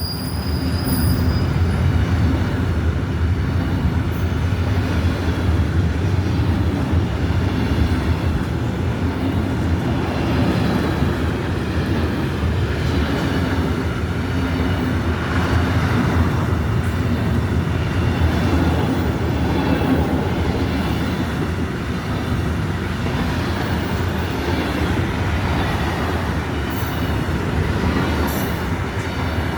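Freight train hauled by an Alstom Prima locomotive rolling past: a steady, loud rumble of wheels on rails that goes on throughout, with a few brief high squeaks near the end.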